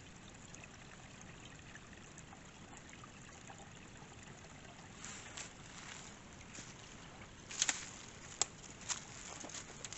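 Small waterfall trickling and splashing steadily. Several sharp taps or knocks come in the second half, the loudest about three-quarters of the way through.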